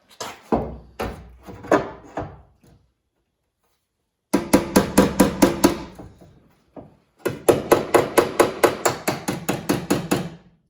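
Hammer blows on steel car-body sheet metal, with a metallic ring after each strike. A few spaced blows come first, then two runs of quick, even taps at about five a second, with short pauses between them.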